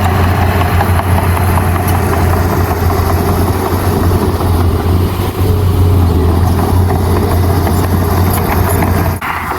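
Heavy diesel engine of earthmoving machinery running steadily with a strong low drone, breaking off abruptly near the end.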